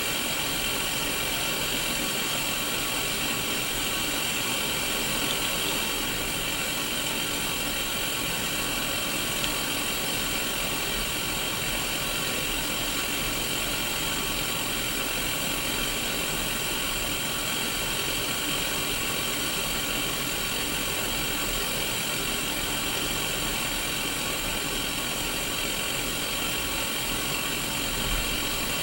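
Analog TV static from a Sony Mega Watchman black-and-white mini CRT television tuned to no station: a steady, even hiss, brightest in the upper middle.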